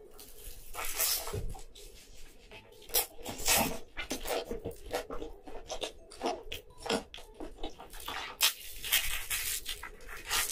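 Close-miked ASMR eating of a pizza slice: a bite about a second in, then crunching and chewing in irregular bursts.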